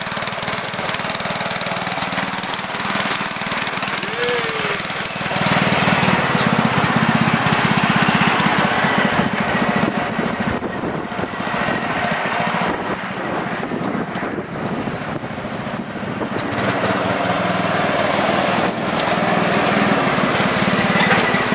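Mud truck's engine running loud and choppy in a rapid pulsing beat, getting louder about five seconds in, easing off for a while in the middle and picking up again toward the end.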